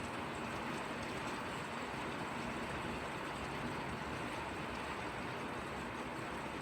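Steady drizzling rain, an even, unbroken hiss of drops that doesn't change.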